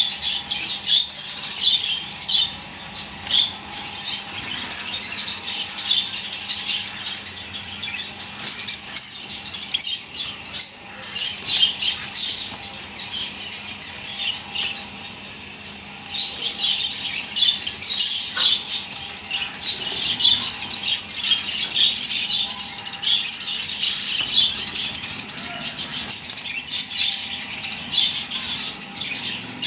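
A flock of Java sparrows chirping and twittering continuously in dense, high-pitched bursts, with wing flutters among the calls.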